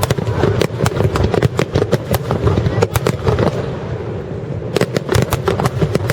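Aerial fireworks going off in a rapid barrage: dense sharp cracks over a steady low rumble, thinning briefly about four seconds in before picking up again.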